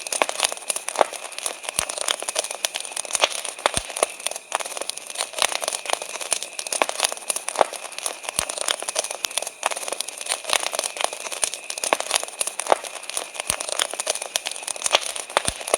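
Wood campfire crackling with many sharp pops and snaps, over a steady high chirring of crickets.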